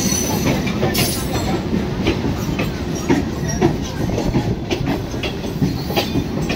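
EMU local train running past at close range as it pulls out, a steady rumble with its wheels clicking over the rail joints about once a second.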